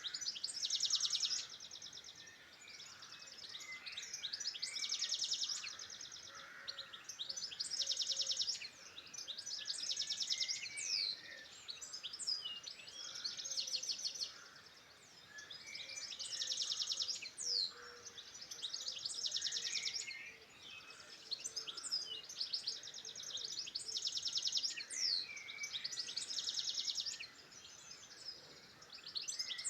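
Songbirds singing: a high, rapid trilled phrase about a second long repeats every two to three seconds, with other short chirps and whistles between.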